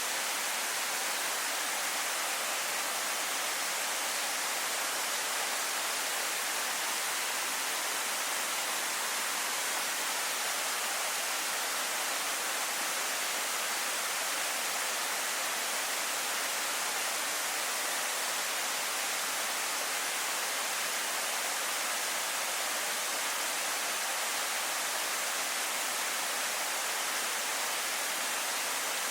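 Waterfall pouring steadily: an even, unbroken hiss of falling water, heavy in the upper range and light in the bass.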